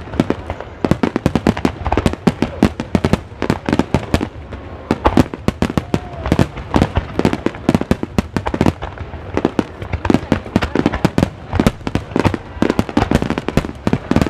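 Fireworks going off in a dense, continuous barrage: sharp bangs and cracks come several a second without a break.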